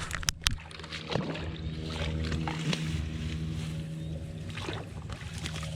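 A small engine running steadily with an even low hum, with a few sharp clicks in the first half-second.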